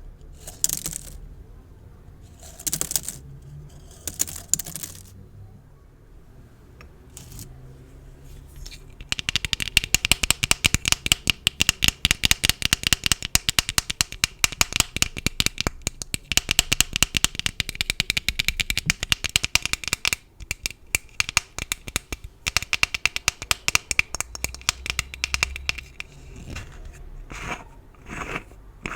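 Decorative gift bows handled close to the microphone: a few brief swishes, then a long stretch of fast, dense crackling from about nine seconds in that stops a few seconds before the end.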